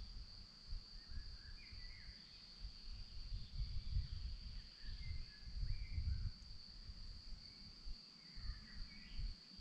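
Forest ambience: a steady, high-pitched chorus of crickets, with scattered short bird chirps and calls above a low, uneven rumble.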